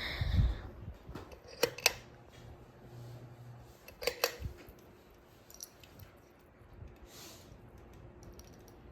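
Two pairs of sharp clicks, about two and a half seconds apart, over a faint steady hum from a running Hampton Bay Clarkston ceiling fan.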